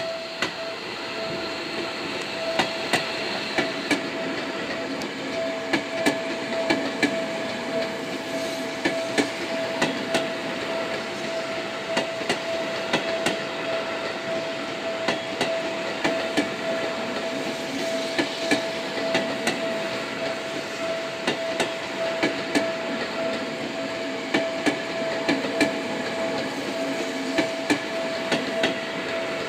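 Seibu 40000-series electric train moving slowly through the points on a shunting move, its wheels clacking and knocking irregularly over rail joints and switches. A steady high-pitched tone sounds under the clatter.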